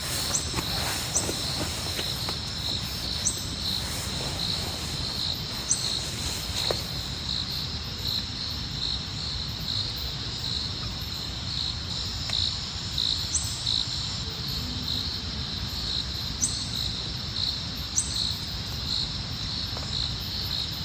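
Steady rainfall with insects, crickets by their sound, chirping in a regular pulsing rhythm over it, a few short high chirps now and then, and some sharp drip-like ticks in the first few seconds.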